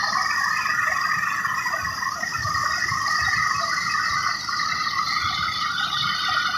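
Tractor-driven thresher running steadily: a continuous high whine and rush over irregular low knocking.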